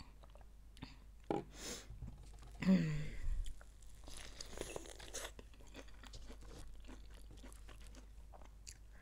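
A person chewing and crunching food, in a few louder bursts during the first five seconds, then quieter chewing.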